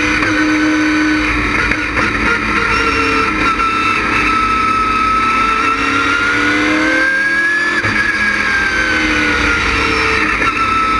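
LS6 V8 engine of a stock race car running hard on track, its pitch climbing slowly for most of the stretch to a peak near the end, then easing back down.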